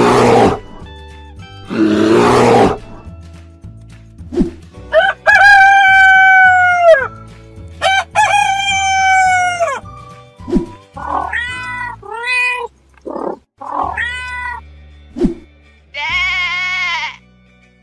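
Cartoon animal sound effects over background music: a bear roars twice at the start, a rooster crows twice, a cat gives a run of short meows, and a sheep bleats near the end.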